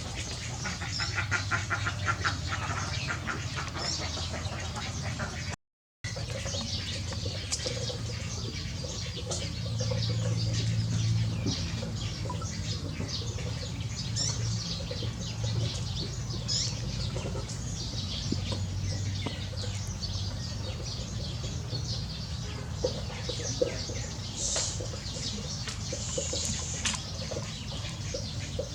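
Domestic fowl calling: a jumble of short, repeated calls and chirps over a low steady hum, broken by a brief total dropout about six seconds in.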